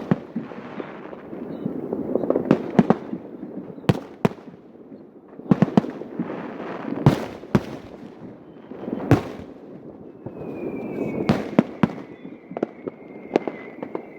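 Aerial fireworks going off: sharp shell bursts every second or two over continuous crackling, with a thin high whistle that falls slightly in pitch from about ten seconds in.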